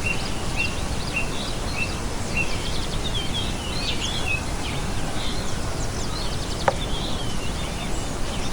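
Small birds chirping: short, high calls repeated about twice a second at first, then several birds calling together, over a steady outdoor noise. A single sharp click comes near the end.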